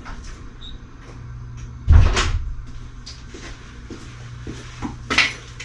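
A heavy thump about two seconds in and a sharper knock near the end, over a steady low hum.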